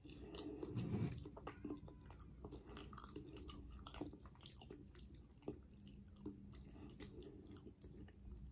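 Close-miked mouth sounds of someone chewing a mouthful of soft cheddar broccoli rice: faint, with many small wet clicks. A brief low hum comes about a second in.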